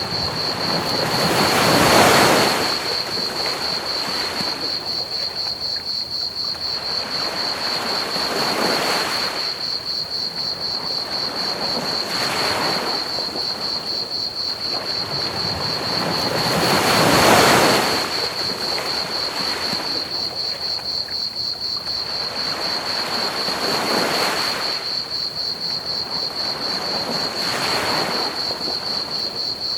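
Ocean waves washing onto a beach, surging in about every four to seven seconds, with the biggest swells near the start and about halfway through. Crickets chirp in a steady high trill over a constant hiss of pink noise.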